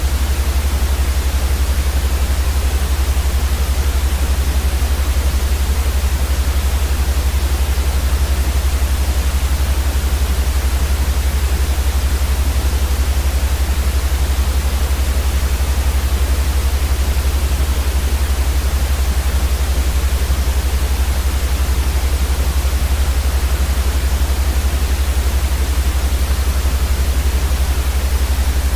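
Steady, unchanging white noise for baby sleep: an even hiss across the whole range, with a stronger deep rumble underneath.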